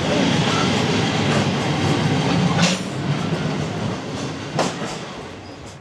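Freight train of cement wagons rolling past, with two sharp wheel clicks over the rail joints. It runs steadily for about three seconds, then fades away.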